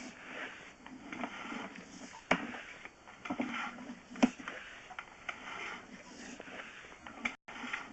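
Sewer-inspection camera and its push cable working through a drain pipe: irregular scraping and rustling with a couple of sharp knocks, about two seconds in and again about four seconds in.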